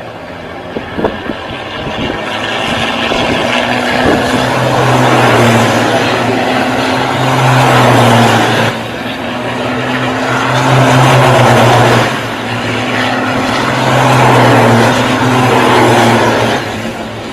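Racing vehicle engines running hard at high revs, loud and sustained, with the sound dipping briefly about nine and twelve seconds in.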